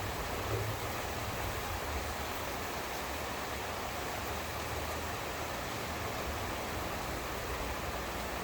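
Steady heavy rain falling in a thunderstorm, an even hiss, with a faint low rumble underneath that swells and fades.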